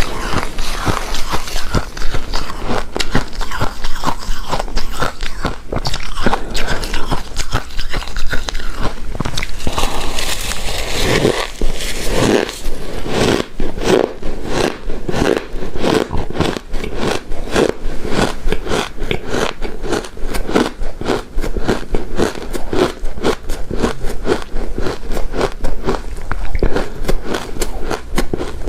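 Close-miked chewing and crunching of shaved ice and snow ice, a quick run of icy crunches that goes on without a break.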